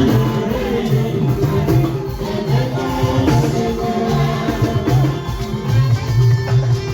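Lively church praise music: singing over a band with a steady beat of percussion.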